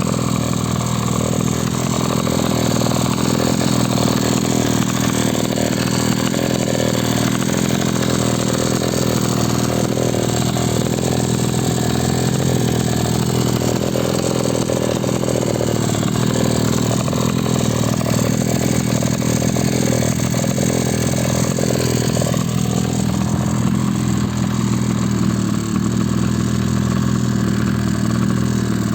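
Modified Carver 3.8 outboard motor running steadily at a constant high speed, with an even engine note that does not change.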